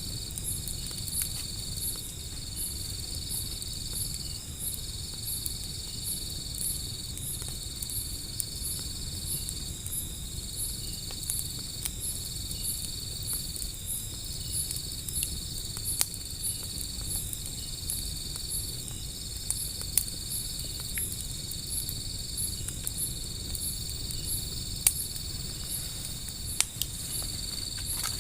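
Insects chirring without pause: a steady high trill that breaks off briefly every second or two, over a faster pulsing chirp. A low rush from a wood fire sits underneath, with a few sharp crackles and pops from the burning wood in the second half.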